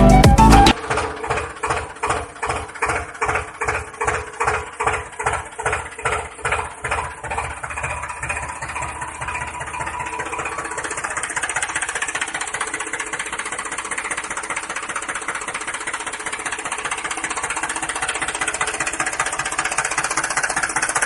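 Small motor of a DIY model tractor running, pulsing unevenly about two to three times a second at first, then settling into a steady buzz.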